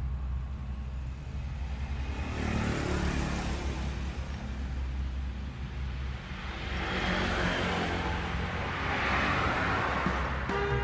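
Vehicles passing on a nearby street: two passes swell up and fade away, the second longer, over a steady low hum.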